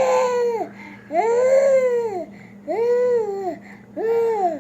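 A baby's voice: four drawn-out, wavering calls, each rising and then falling in pitch, a little over a second apart.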